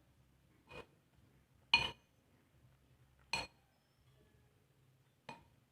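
Four short clinks of a utensil against cookware, each with a brief ring, spaced one to two seconds apart; the second, about two seconds in, is the loudest.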